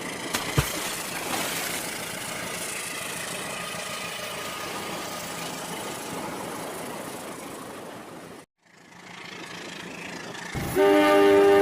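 Battery-powered toy train running, a steady whirring rattle with two sharp clicks about half a second in and a brief drop-out about eight seconds in. Near the end the toy locomotive's electronic horn sounds loudly as a steady chord.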